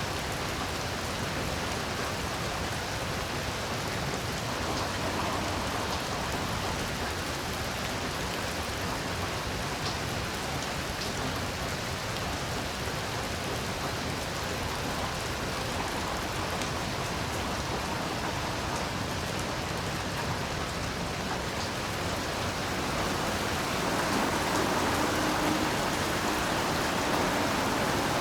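Heavy rain falling steadily, a dense even hiss with scattered drop ticks, growing slightly louder near the end.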